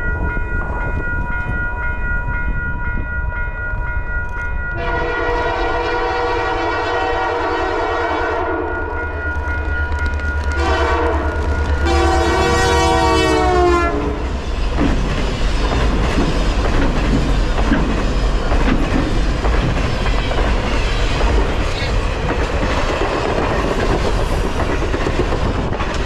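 Diesel locomotive of a passing train sounding its air horn: a long blast, a short one, then another blast whose pitch drops as the locomotive goes by. After that comes the steady rumble and wheel clatter of the lit passenger cars rolling past on the rails.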